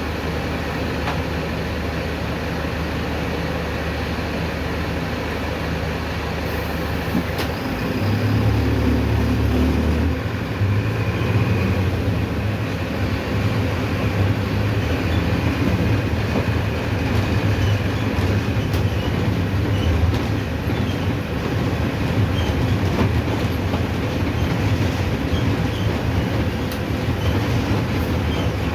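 Mercedes-Benz OF-1519 diesel city bus running along its route; about eight seconds in its low engine note grows louder and stays so, as when the bus pulls away or accelerates.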